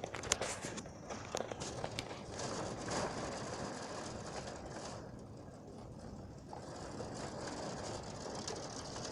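Heavy rain falling steadily, a broad hiss with a few sharp drip taps in the first couple of seconds; the higher hiss thins out for a moment around the middle.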